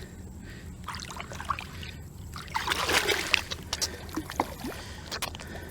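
Water sloshing and trickling as a common carp is released back into the lake by hand, with louder splashing about three seconds in.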